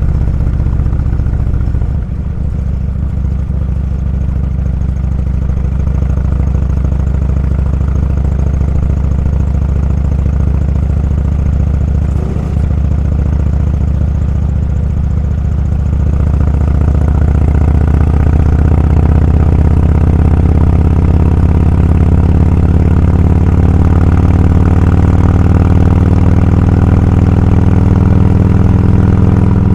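Motorcycle engine running while riding, a low steady drone. It dips briefly about two seconds in and again near the middle, then grows louder and rises a little in pitch from about halfway on.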